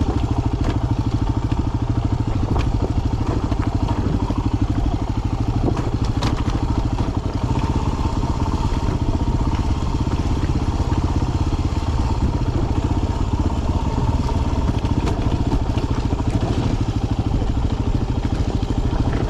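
Dirt bike engine running steadily at low speed in first gear, engine braking down a steep, loose descent, with a few faint clicks and knocks over it.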